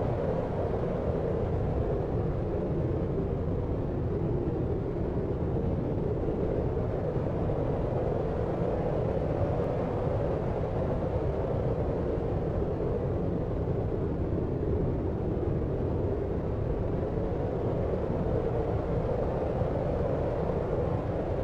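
Deep white noise for sleep: a steady, even hiss weighted toward the low end, with a soft rumble underneath and no changes.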